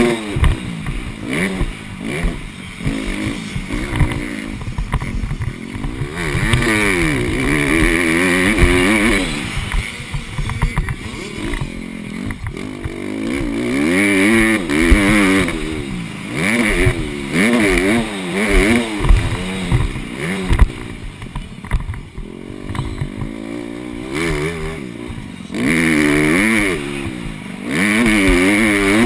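Honda CRF150R four-stroke dirt bike engine being ridden hard, revving up and dropping back again and again as the rider accelerates, shifts and backs off, with a few stretches held at high, steady revs. Short clatters and knocks come through now and then.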